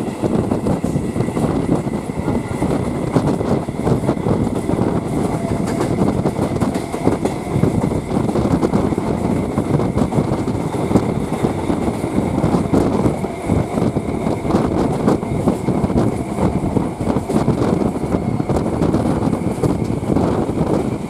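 Running noise of an electric suburban local train (EMU) heard at its open doorway: wheels rolling on the rails in a steady rumble with fine clatter, and a faint steady high whine above it.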